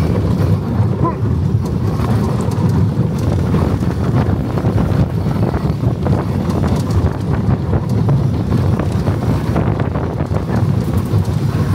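Slinky Dog Dash roller coaster train running along its track, a steady loud rumble with rattling, and wind buffeting the microphone.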